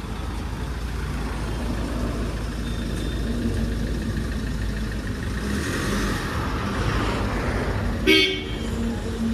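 Mahindra Scorpio SUV engine running low as the vehicle creeps forward, over a steady traffic rumble. About eight seconds in, a short car-horn toot, the loudest sound.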